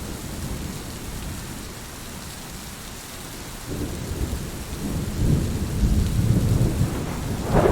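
Heavy rain falling steadily, with thunder rumbling low beneath it. The rumble fades to a lull, then rolls back in louder over the second half.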